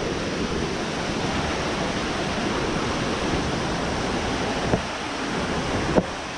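Steady rush of falling water from waterfalls and streams, with two brief knocks near the end.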